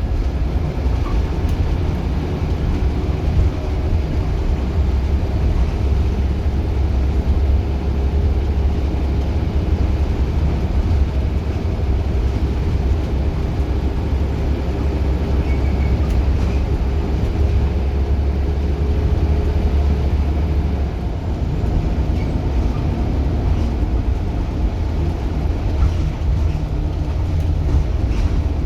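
Scania single-deck bus engine running under way, a steady deep drone with a steady whine above it. About two-thirds of the way through, the lowest part of the drone drops off as the engine eases.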